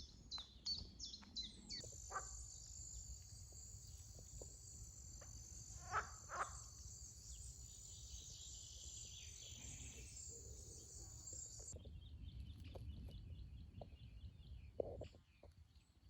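Faint outdoor nature sounds: a steady high-pitched insect-like buzz or trill runs for about ten seconds and cuts off suddenly. A few short bird calls come about six seconds in, over a low rumble.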